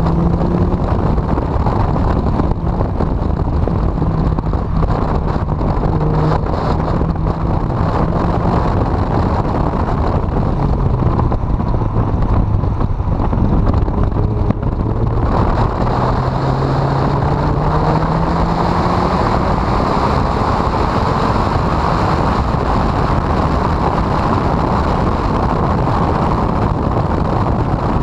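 Honda CRX engine running on track under heavy wind and road noise on the microphone. The engine note holds steady, drops lower about ten seconds in as the car slows, then climbs steadily from about halfway as it accelerates.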